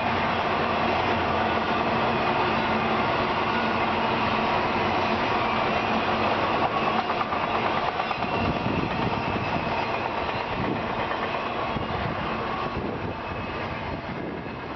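Freight train rolling past, a steady rumble and clatter of wheels on rail, easing off slightly near the end.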